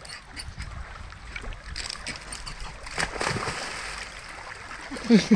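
River water running steadily, with splashing as a dog moves about at the water's edge; a sharper splash about three seconds in.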